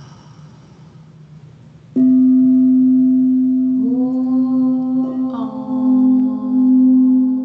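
Singing bowls struck, the first about two seconds in, setting off a strong, steady low ringing tone with several higher overtones. A second strike a few seconds later adds more ringing tones over the first, which sustains throughout.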